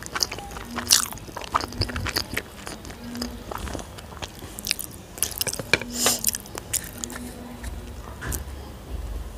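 Close-miked chewing of food, with repeated crisp crunches and wet mouth sounds.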